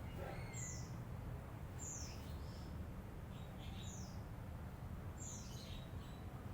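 Lovebird chirping: short, high-pitched chirps that sweep downward, one every second or two, over a steady low hum.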